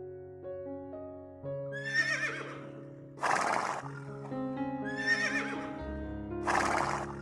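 A horse whinnies twice, each time a wavering, quavering call followed by a short noisy burst, over steady background music.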